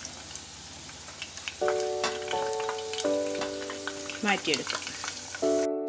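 Chicken and potato pieces sizzling as they deep-fry in hot coconut oil, with a slotted spoon stirring and lifting pieces out of the pan. Held background-music chords come in about a second and a half in.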